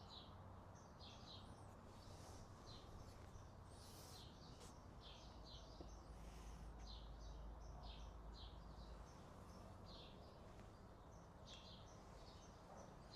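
Faint chirping of small birds, many short calls repeated irregularly, over a low steady background hiss.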